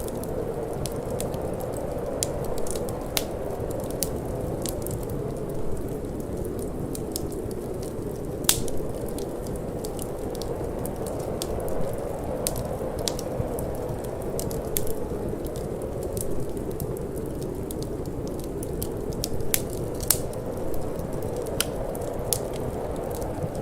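Wood fire crackling, with irregular sharp snaps and pops, a couple of them louder, over a steady low rush of cold wind.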